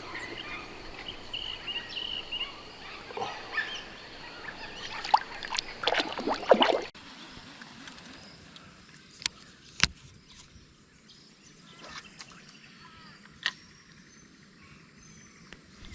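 Outdoor creek ambience with a few short bird calls, and a run of sharp splashes and knocks about five to six and a half seconds in. After an abrupt change about seven seconds in, it is quieter, with a few isolated sharp clicks and taps.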